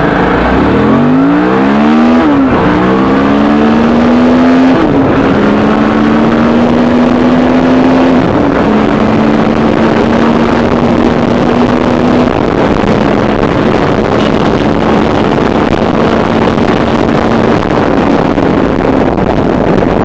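Suzuki V-Strom 650's V-twin engine accelerating hard, shifting up through the gears: the pitch climbs, then drops back at each shift, about two, five, eight, twelve and seventeen seconds in. Steady wind and road rush runs underneath.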